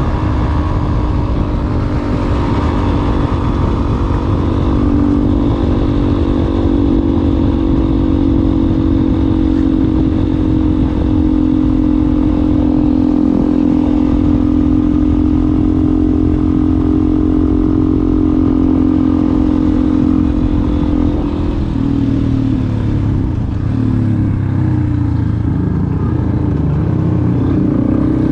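Yamaha Ténéré 250's single-cylinder four-stroke engine running through an aftermarket WACS exhaust tip, holding a steady note for most of the stretch; about 21 seconds in, the engine note drops and then wavers up and down.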